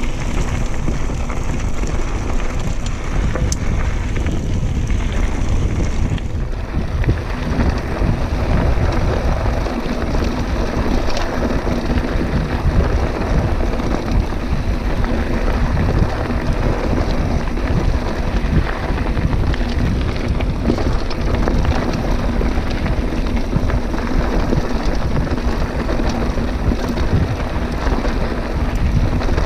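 Wind buffeting the microphone with mountain bike tyres rolling over a dirt and gravel trail, a steady rushing rumble with a fine crackle.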